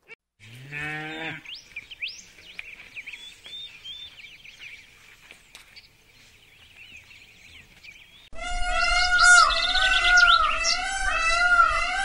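A water buffalo's short, low moo about half a second in, followed by faint bird chirps. About eight seconds in, a loud chorus of warbling birdsong cuts in suddenly.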